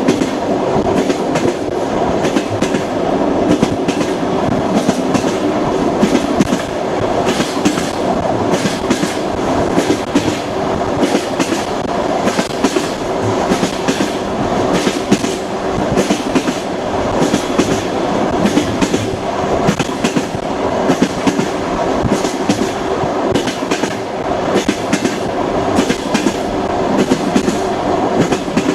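Train running steadily on the rails: a continuous rumble with the wheels clicking over rail joints again and again.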